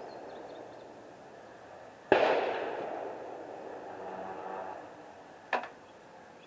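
A rifle shot about two seconds in, its report rolling away in a long echo, then a short sharp crack near the end.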